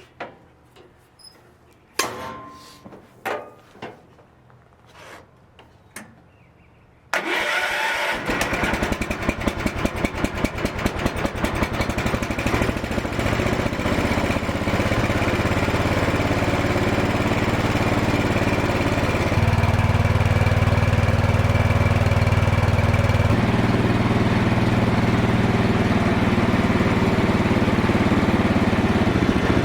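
A few clicks and knocks, then about seven seconds in the 1978 Cub Cadet 1000 garden tractor's engine starts abruptly. It runs roughly with a pulsing beat for several seconds, then settles into steady running, its note shifting twice later on.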